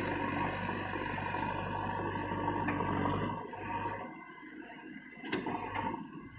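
A heavy diesel engine runs steadily with a low hum, then falls away a little over three seconds in, leaving a quieter stretch with a single sharp knock.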